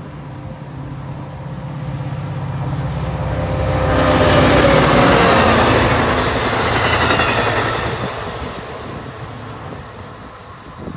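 Shore Line East train, a GP40-3H diesel locomotive hauling coaches, passing at speed. The locomotive's engine drone builds, then a loud rush of wheels on rail with falling high tones comes about four seconds in and fades as the train moves away.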